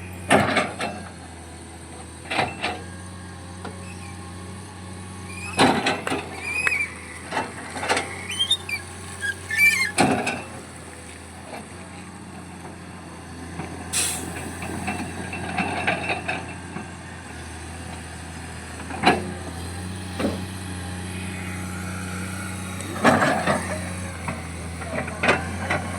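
A JCB backhoe loader digging: its diesel engine runs steadily underneath repeated sharp clanks and knocks of the digging work, with a few short high squeals.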